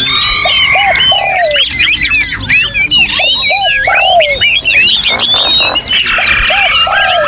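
Many songbirds singing at once, a dense chorus of overlapping chirps and whistles. Under it, a low arched note repeats about twice a second.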